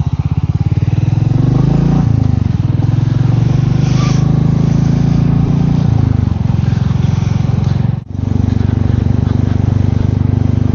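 Royal Enfield Meteor 350's single-cylinder engine pulling under way. Its pitch rises, drops suddenly about two seconds in as it changes up a gear, and climbs again. The revs fall around six seconds in, the sound cuts out for an instant near eight seconds, and it then runs at a steady speed.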